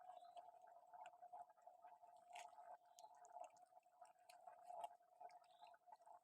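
Faint, irregular wet smacking and chewing of a dog eating soft ripe mango, over a steady faint hum.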